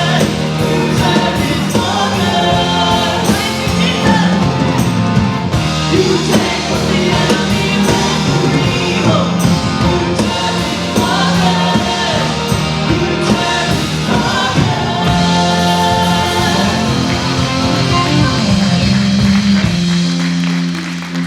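Live church worship band playing a song with singing. Near the end the beat stops, leaving one held note.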